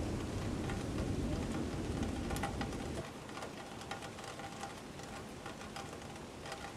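Steady rain falling during a night thunderstorm, with many sharp drop ticks. A low rumble underneath fades out about three seconds in.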